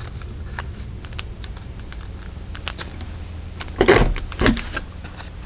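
Paper being handled and folded on a craft table: light clicks and taps, with two louder paper rustles about four seconds in, over a steady low hum.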